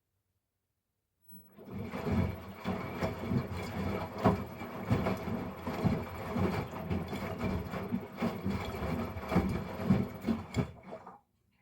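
Drum of a Miele Professional PW 6065 Vario commercial washing machine turning during a rinse, with stuffed toys tumbling and splashing in a high water level as a run of irregular thuds. It starts about a second in and stops shortly before the end, one turning phase between pauses.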